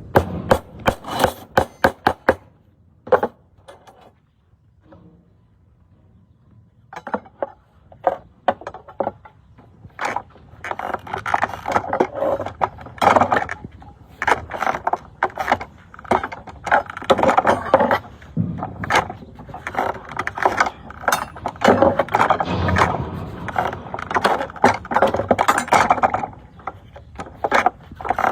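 Construction work: a string of sharp knocks and scraping, sparse with a lull in the first few seconds, then dense and busy from about ten seconds in.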